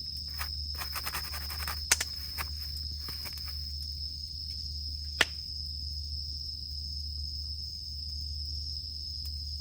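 Wood campfire crackling: a run of small crackles in the first few seconds and one sharp, loud pop about halfway through. Under it runs a steady, high drone of cicadas.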